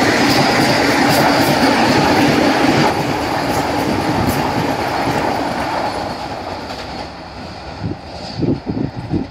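Vande Bharat Express electric trainset passing close at speed: a loud rush of wheels on rail with faint clicking over the rail joints. The sound fades steadily after about three seconds as the train draws away, and a few low thumps come near the end.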